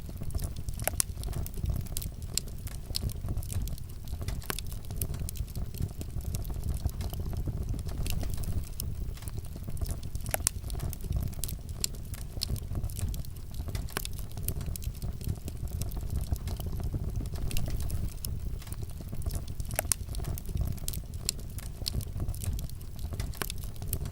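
Wood fire crackling in a fireplace: many sharp pops and snaps over a steady low rumble of the flames.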